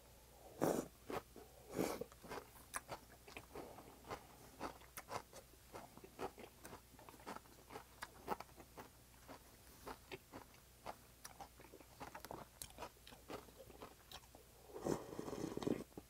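Close-miked eating of raw swordtip squid and vegetables from a cold spicy mulhoe: strands slurped in twice near the start, then steady wet chewing with small crunches and clicks. Near the end a short rush of noise.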